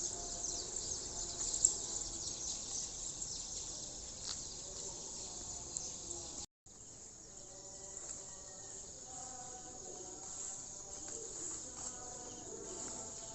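Crickets and other insects chirring in a steady, dense high-pitched chorus, with faint distant tones beneath. The sound drops out for a moment about halfway through.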